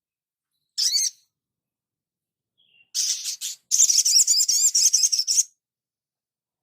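Songbird on a masteran (song-tutoring) recording: a short high chirp about a second in, then a rapid high-pitched twittering song of about two and a half seconds.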